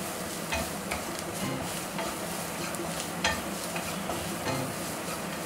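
Onions and green chillies sizzling as they are sautéed in oil in a non-stick kadai, stirred with a wooden spatula that scrapes and taps against the pan a handful of times.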